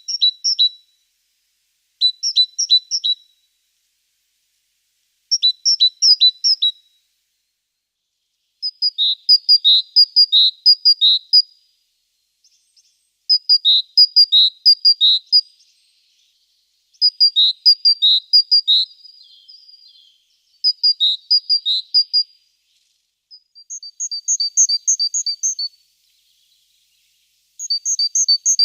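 Small songbird singing. Its song comes in short phrases, each a quick run of repeated high two-note units, about every three seconds.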